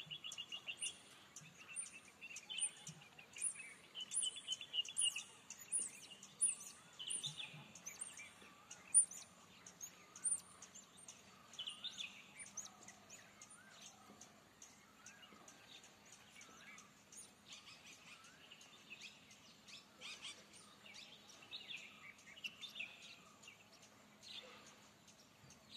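Birds chirping: a run of short, high repeated notes about two a second for the first ten seconds or so, with other trilling calls scattered throughout.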